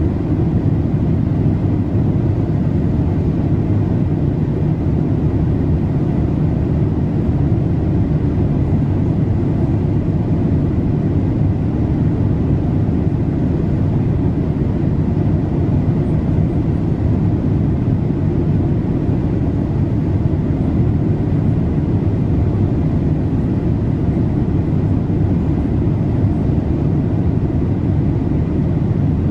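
Boeing 787-8 passenger cabin noise in flight: a steady, even, low rushing sound that does not change.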